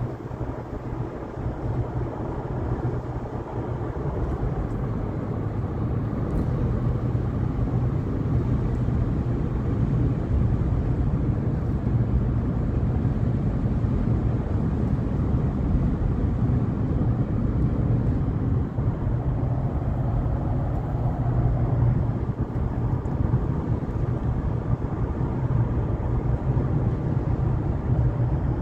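Steady drone of a car being driven, engine and tyre noise heard from inside the cabin, with strong wind against the car. It grows a little louder over the first few seconds, then holds steady.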